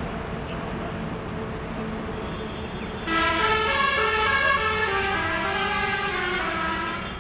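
An approaching electric train gives a steady low rumble. About three seconds in, a loud tune of quickly stepping, siren-like tones starts over it and runs for about four seconds before it stops abruptly.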